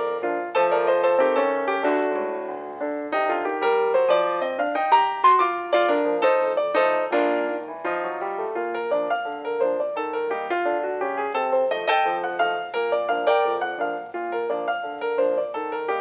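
Background piano music: a quick run of many short notes.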